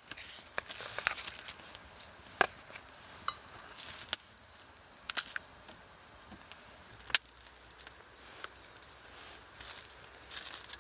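Scattered sharp clicks and snaps at close range, the loudest about two seconds in and again about seven seconds in, with short stretches of soft rustling between them.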